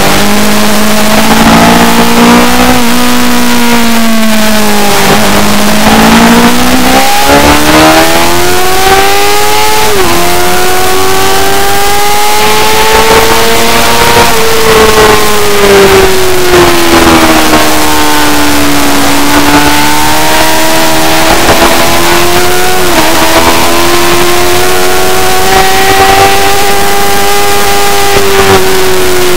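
Superbike engine running hard on track, its pitch climbing under acceleration and falling away, with sudden drops at gear changes about ten seconds in and again near the end, over a steady hiss of noise.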